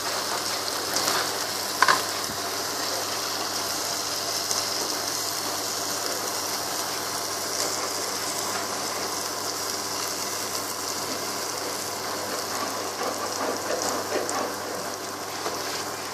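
Onion, tomato and spice masala sizzling steadily in hot oil in a pan, with the added cubes melting into it. A sharp metallic clink comes about two seconds in, and a spoon clatters in the pan near the end.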